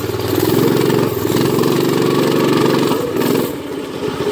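Predator 212cc single-cylinder four-stroke engine on a Doodlebug minibike running under throttle while ridden on a trail. It runs louder for the first three seconds or so, then eases off near the end.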